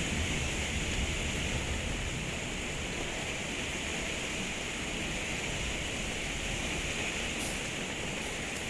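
Heavy rain falling steadily in a thunderstorm, an even hiss of downpour with a low rumble underneath.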